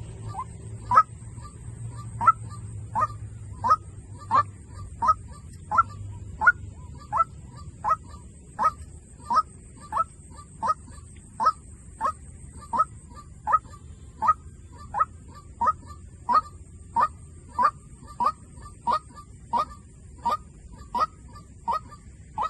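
White-breasted waterhen lure call: a short, rising honking note repeated evenly, about three calls every two seconds.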